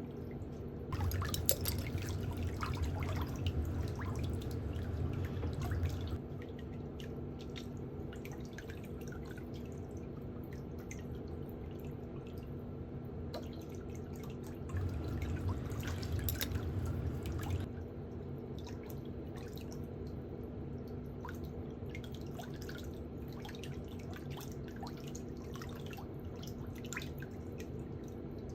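Water dripping and splashing in a pedicure foot basin, with scattered small drips over a steady low hum. There are two louder stretches of swishing water, about a second in and again around fifteen seconds.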